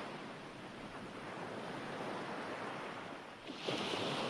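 Ocean surf washing in steadily, with a fresh wave surging up about three and a half seconds in.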